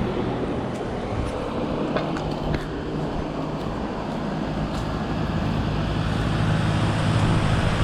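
Outdoor heat pump unit running: steady hum of the compressor and condenser fan, with a low tone under an even rush of air, getting a little louder toward the end.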